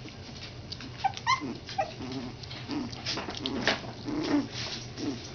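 Three-week-old Schnauzer puppies whimpering and squeaking: short high squeaks, some rising, about a second in, then lower whines through the rest.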